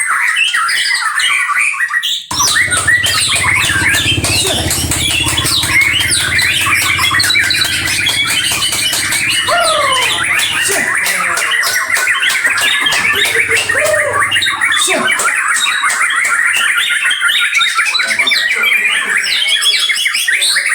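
Songbirds singing and chattering continuously, many rapid overlapping chirps and trills, with a low hum underneath for the first half.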